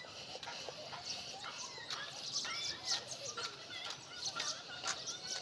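Outdoor ambience with birds chirping: many short, faint calls scattered throughout.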